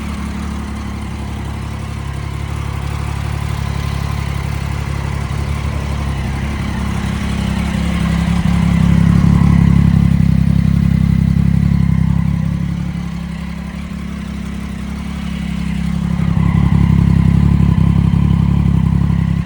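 Triumph Daytona 675's inline-three engine running at idle, its sound swelling twice as the throttle is blipped up and held, about eight seconds in and again near the end, then settling back to idle.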